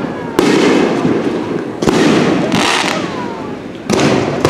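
Aerial fireworks shells bursting overhead: about four sudden booms, each trailing off into a dense crackling hiss of falling sparks, with a faint whistle gliding in pitch between them.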